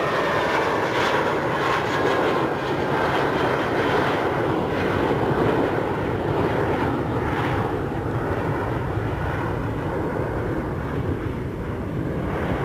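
Jet airliner passing close by, its engine noise a loud, steady rumble and hiss that eases slightly toward the end.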